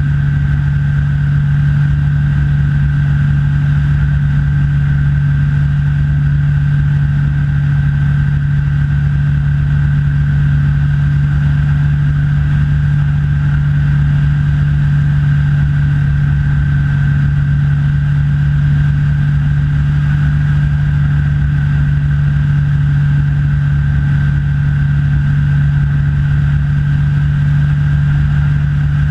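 Rans S6 light aircraft's engine and propeller droning steadily in cruise, with a thin steady whine higher up above the low drone.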